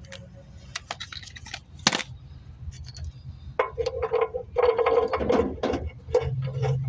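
Metal tool clicks and knocks from work on a car's engine mount, coming more thickly in the second half, some with a short metallic ring, over a steady low hum.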